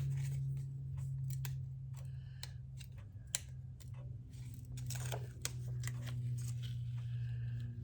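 Small scattered clicks and rustles of paper and foam adhesive being handled and pressed while attaching foam to the back of a scrapbook embellishment, over a steady low hum.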